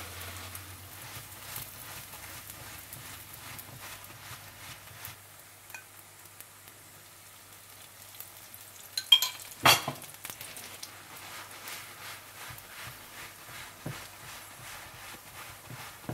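Paratha frying in butter or oil on a hot tawa, the fat sizzling and crackling steadily. Two louder sharp knocks or scrapes come about nine and ten seconds in.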